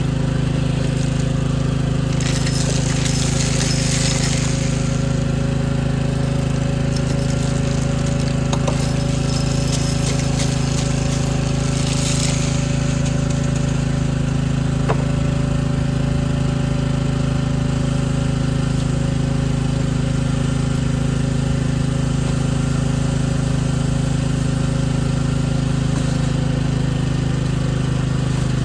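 A machine running steadily with an even low drone, with two short bursts of hiss, one about two seconds in and another about twelve seconds in.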